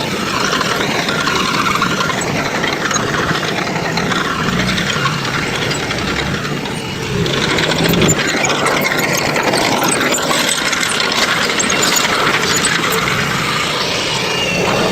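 Heavy construction machinery's diesel engine running steadily, with rattling and clanking. It gets a little louder about seven seconds in.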